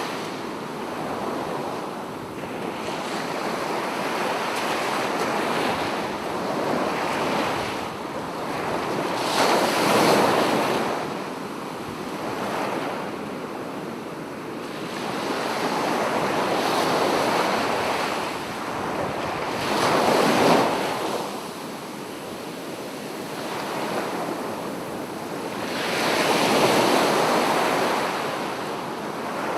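Sea waves breaking on a beach, a steady wash of surf that swells into a louder crash three times.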